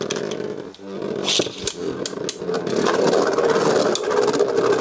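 Beyblade Burst tops spinning and clashing: a steady whirr with many sharp clicks from repeated impacts, briefly dropping about a second in.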